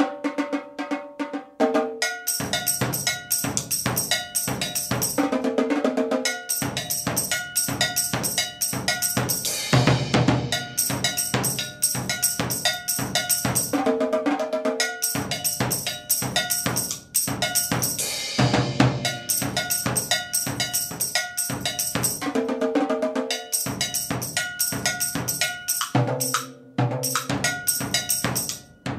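Drum-kit music with a steady, driving beat on snare and bass drum.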